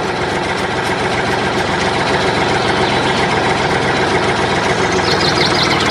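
Tractor engine idling steadily, just after being started. A few faint high chirps come in about five seconds in.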